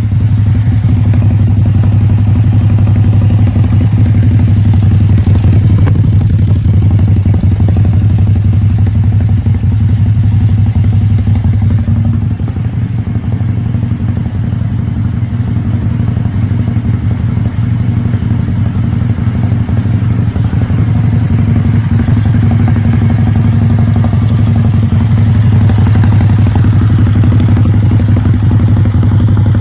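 Can-Am Spyder RT three-wheeled motorcycle fitted with an aftermarket GPR exhaust muffler, its engine idling steadily with a loud, even low exhaust note.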